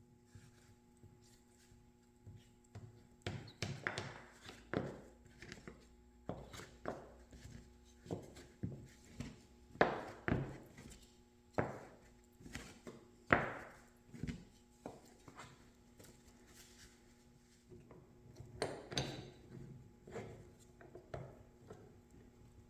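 A string of irregular knocks and thunks, as of hard pieces being handled and set down, over a faint steady hum.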